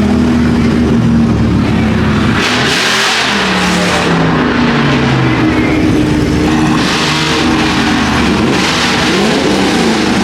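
Loud performance-car engine revving, its pitch rising and falling several times, with two loud rushes of exhaust noise, in the middle and later on.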